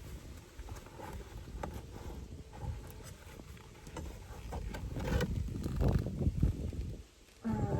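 Wooden hive frame being handled and inspected: scattered light knocks and scrapes over a low rumble, busier a few seconds in, with a brief lull near the end.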